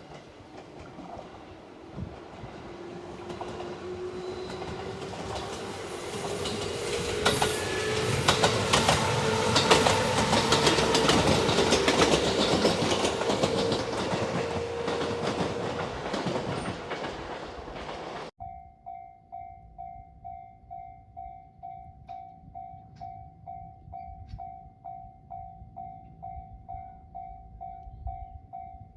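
A train passes over a level crossing: it grows louder and then fades, with wheels clicking over rail joints and a slowly rising whine. After a sudden cut, a Japanese level crossing warning bell rings steadily, about two dings a second.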